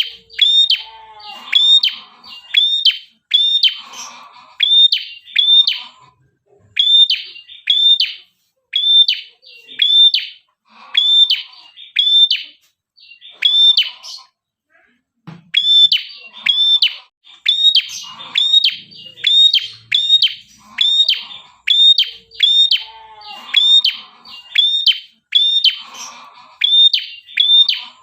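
Red-headed prenjak, a small Indonesian songbird, singing persistently in the 'gacor' style used to lure wild prenjak. Its song is a rapid run of sharp, hooked high chirps, about two a second, mixed with lower buzzy notes, with a short pause about halfway through.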